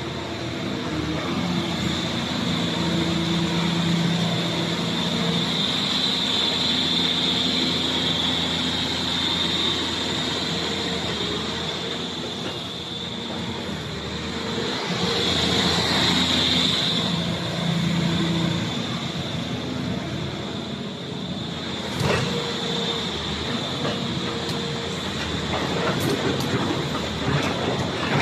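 Volvo EC360BL excavator at work: its diesel engine runs steadily under a high hydraulic whine that swells twice as the engine comes up under load. A sharp metallic knock comes about 22 seconds in, and clattering follows near the end.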